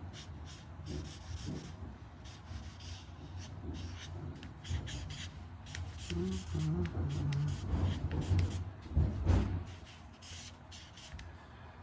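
Pen strokes scratching and rubbing across paper in quick repeated strokes while sketching, with a louder low bump about nine seconds in.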